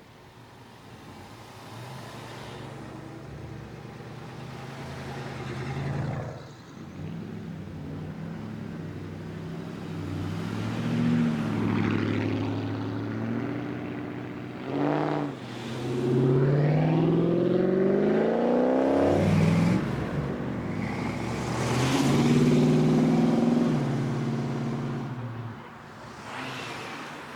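Several cars with loud exhausts accelerating away one after another, engines revving. The loudest pull is about two-thirds of the way through, its pitch rising as it speeds up.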